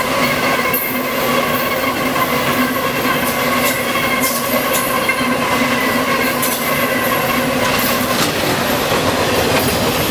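Norfolk Southern freight train rolling past, with rail clatter and high wheel squeals, over a steady hum that drops away about eight seconds in.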